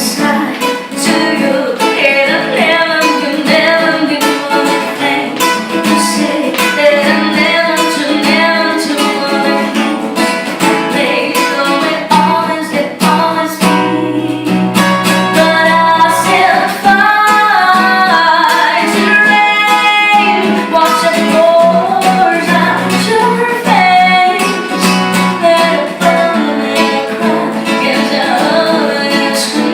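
A woman singing live, accompanied by a strummed acoustic guitar.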